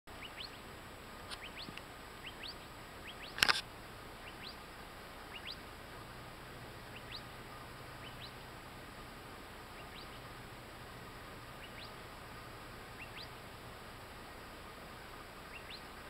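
Birds calling with short rising chirps, scattered through the clip and most frequent in the first few seconds. A single sudden sharp, loud sound about three and a half seconds in stands out above them.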